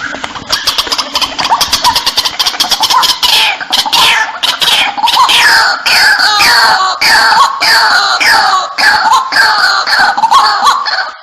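White-breasted waterhen call, loud and harsh: a fast run of short clicking notes builds into a long series of falling, croaking calls repeated about twice a second, stopping just before the end.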